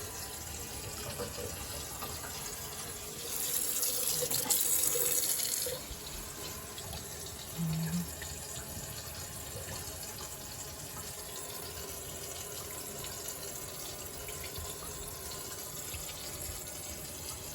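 Tap water running steadily into a sink and draining, with a louder, hissier stretch of rushing water about three to six seconds in.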